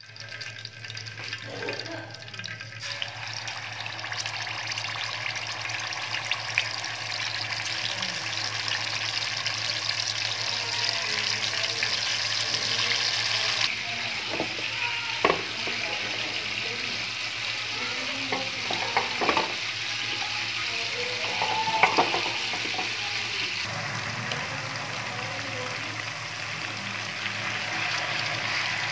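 Food sizzling as it fries in hot oil in a metal pan: a steady hiss that shifts abruptly a few times, with stirring and a few sharp clinks in the middle.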